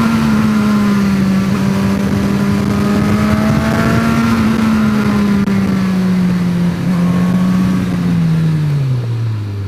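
Suzuki GSX-S1000 inline-four motorcycle engine running through its stock exhaust, held at fairly steady high revs with a slight waver, then the revs fall away near the end.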